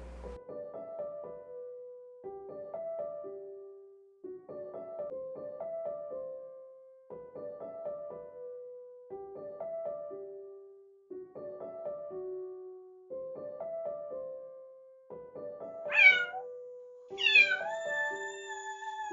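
A short piano-like melody repeats as background music. Near the end a kitten meows loudly twice, first a brief rising meow and then a long, drawn-out one.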